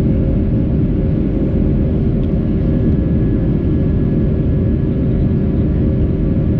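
Airbus A320 jet engines and airflow heard from inside the passenger cabin: a loud, steady low rumble with a faint hum of steady engine tones on top.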